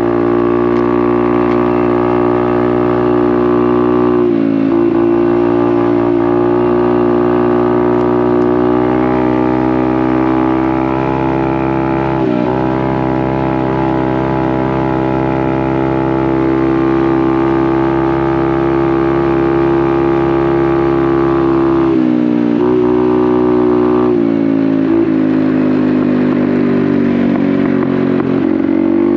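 Honda Navi's small single-cylinder engine running through a Vance & Hines exhaust under steady throttle, its note holding level with a few brief dips in pitch as the throttle eases and picks back up.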